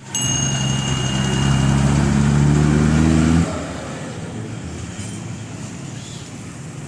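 Truck engine running hard, its pitch climbing slowly, then cutting away suddenly about three and a half seconds in, leaving a lower, steady street noise.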